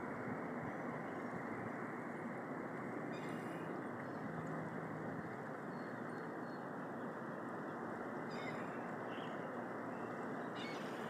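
Steady rushing noise of surf and wind at a beach at low tide, with three brief higher-pitched sounds.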